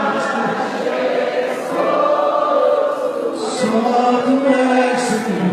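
Many voices singing a worship song together, a choir-like sound with long held notes.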